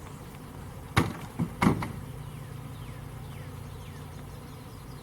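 Honeybee swarm buzzing steadily. A quick run of three sharp knocks about a second in is the loudest thing.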